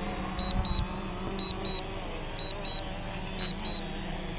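Drone controller beeping its low-battery warning, a high double beep about once a second, with the battery near 12%. A steady low hum runs beneath.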